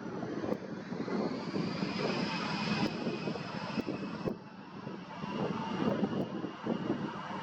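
Twin-engine jet airliner's engines whining, the pitch rising about a second in and then holding, over gusty wind buffeting the microphone.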